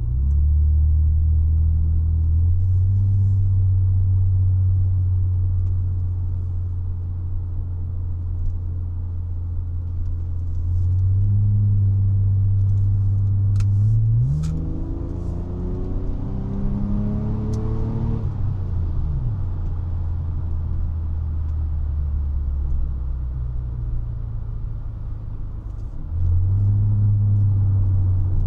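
1999 Honda Legend's 3.5-litre V6 engine and exhaust, a low steady drone at cruise. About halfway through, the revs rise sharply and climb for several seconds under acceleration, then drop back to a steady drone. The engine load picks up again near the end.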